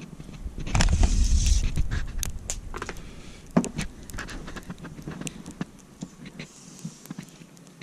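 A muffled low rumble about a second in, then scattered crunches and scrapes as a ruler is pushed down into a deep layer of fine snow to measure its depth.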